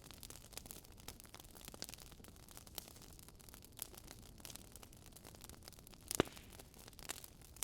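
Burning wood logs crackling: irregular small snaps and ticks over a low hiss, with one louder pop about six seconds in.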